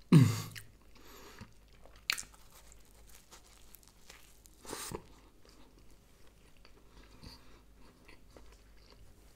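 Close-up bites and chewing of a flaky-pastry chicken seekh pocket, with sharp crunches at about two seconds and again near five seconds, then quieter chewing. At the very start there is a short hum from the eater, falling in pitch.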